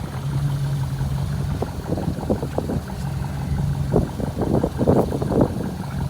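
Boat engine idling with a steady, low, even hum.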